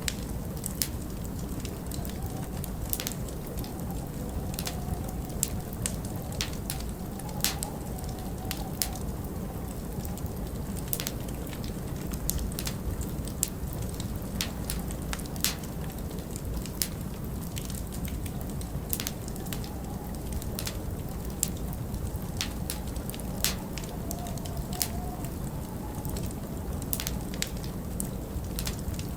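Wood fire crackling, with frequent sharp irregular pops, over a steady low rumble of winter wind.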